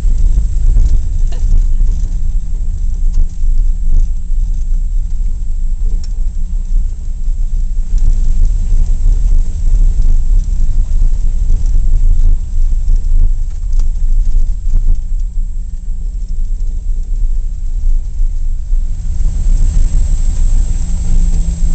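A 1941 Plymouth's flathead straight-six engine and road rumble heard from inside the cabin of the moving car, a steady low drone with a few light knocks and rattles. The engine note eases off for a few seconds about two-thirds of the way through, then comes back up.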